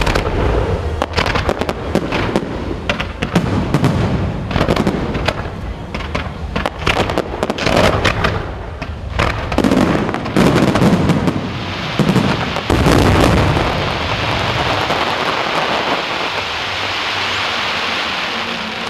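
Fireworks display: a rapid run of booming bursts and sharp cracks with rumbling echoes, then about two-thirds in a dense, steady hiss takes over.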